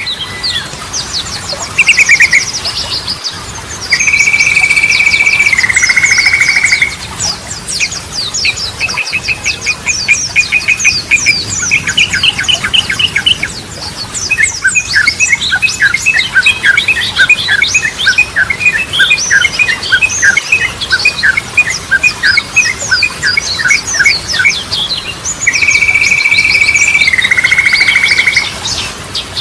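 Yellow-vented bulbul song: a busy run of loud chirps and warbles, broken twice by a long buzzing trill that drops lower near its end, and in the middle a fast series of repeated sharp chirps.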